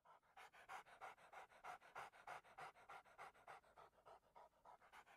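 Dog panting: quick, even, faint breaths, several a second, growing slightly louder near the end.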